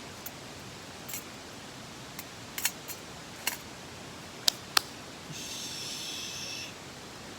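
A scattered series of sharp clicks and clacks of small hard objects being handled, the two loudest close together about halfway through, followed by a rasping sound lasting about a second and a half, over the steady rush of a mountain stream.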